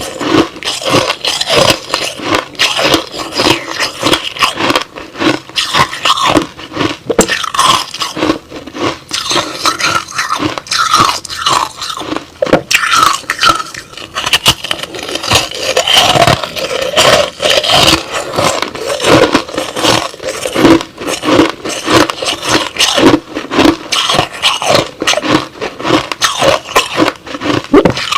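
Crushed ice slush being bitten and chewed close to the microphone: a dense, irregular run of crunches and scraping grinds.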